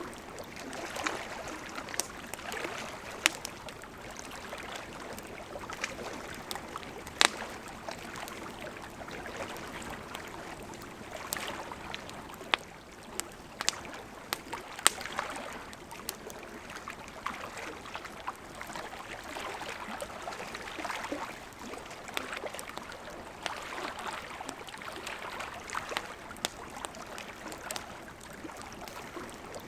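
Wood campfire crackling with sharp, irregular pops over the steady rush of a gently flowing river.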